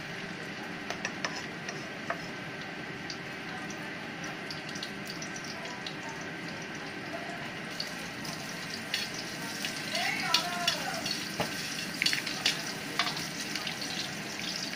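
Chopped aromatics sizzling in a little hot oil in a wok. From about halfway a metal spatula stirs them, with scattered clicks and scrapes against the pan.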